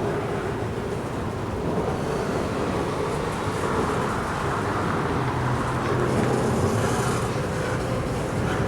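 Diesel freight train running slowly past, a steady rumble of the locomotive engines' low hum and the rolling cars.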